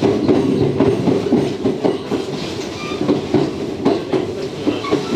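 JR West 227 series electric train running, heard from inside the carriage: a steady wheel-and-rail rumble with irregular clicks as the wheels pass over rail joints.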